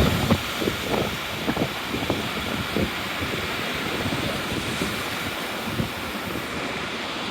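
Gusty wind buffeting the microphone with irregular thumps, over the steady wash of waves on a choppy sea.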